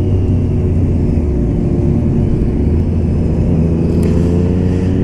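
Motorcycle engine running steadily under way, its pitch rising slightly in the second half as it picks up a little speed.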